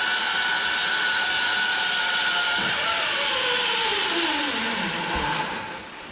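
Zipline trolley pulleys whining along the steel cable, with wind rushing past. About halfway through, the whine falls steadily in pitch as the rider slows, and near the end the noise drops away as the trolley comes to a stop.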